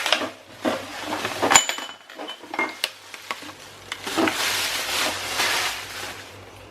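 Groceries being handled and set down on a kitchen surface: a few knocks and one clear clink about a second and a half in, then a couple of seconds of rustling, like a shopping bag, a few seconds in.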